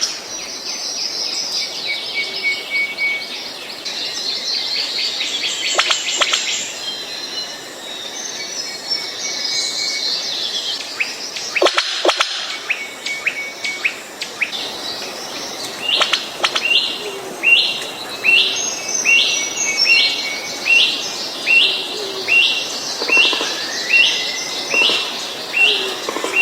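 Birds calling and chirping in a dense, overlapping mix. From about two-thirds of the way through, one bird repeats a short, stepped, falling call at an even pace, about one every 0.7 seconds.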